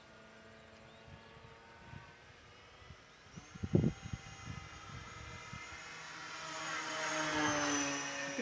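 Radio-controlled model Cessna's motor and propeller droning steadily, growing louder to a peak near the end as the plane passes close, its pitch dropping slightly as it goes by. A few brief thumps about four seconds in.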